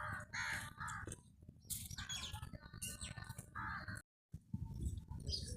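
Birds calling in short, repeated calls, with the sound cutting out completely for a moment about four seconds in.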